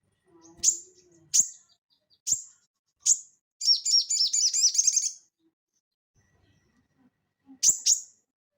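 A sogon (little spiderhunter) calling. It gives four sharp, high chirps about a second apart, then a fast rattling run of notes for about a second and a half, then two quick chirps near the end.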